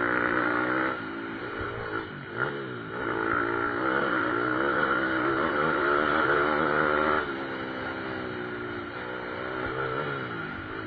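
Pit bike engines revving up and down, their pitch rising and falling with the throttle. They are loudest in the middle and drop away after about seven seconds.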